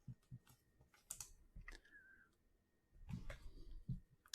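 Near silence broken by faint, scattered clicks and light handling noise of trading cards being flipped through in the hands.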